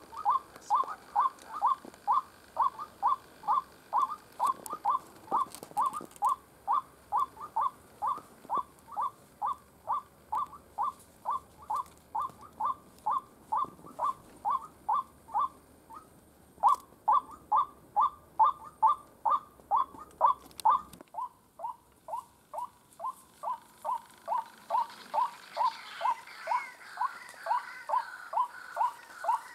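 White-breasted waterhen call: a short falling note repeated steadily about two and a half times a second, with one brief break partway through. Near the end a fainter, higher chattering call joins in.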